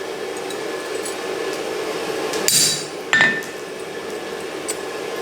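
Two sharp metal-on-metal clanks a little over half a second apart, about two and a half seconds in, the second ringing on briefly, as steel tools and stock are struck or handled at the anvil. A steady hum runs underneath.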